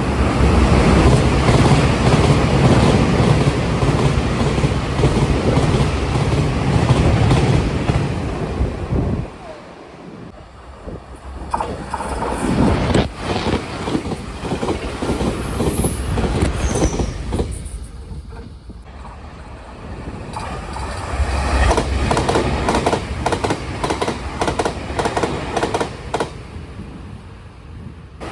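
Taiwan Railway express electric multiple-unit trains passing at speed, about 125–130 km/h. There is a heavy rumble of wheels, a rapid clatter over the rail joints and a rush of wind. The sound drops off twice, about nine and eighteen seconds in, and builds again with the next train each time.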